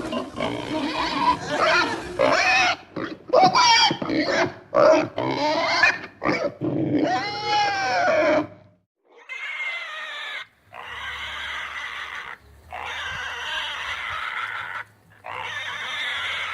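Domestic pigs calling: a rapid run of short grunts and calls that rise and fall in pitch, then after a brief silence about eight and a half seconds in, steadier, noisier stretches of pig sound broken by short gaps.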